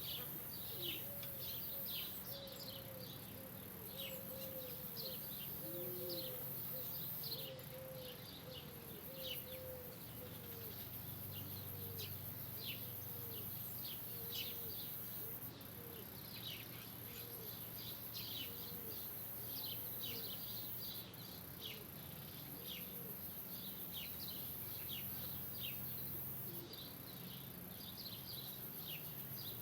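Small birds chirping with many short, quick calls, over a run of low, repeated coos that slow down and stop about three quarters of the way through. A steady high hiss runs underneath.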